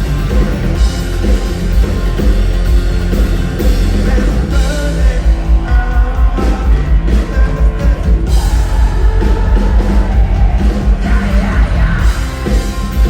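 Live rock band playing loudly through a concert sound system, with drums, bass and guitars.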